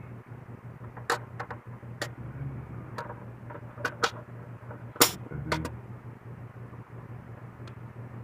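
Scattered clicks and knocks from handling the plastic housing and battery compartment of a ProChrono Pal chronograph, the loudest about five seconds in, over a steady low hum.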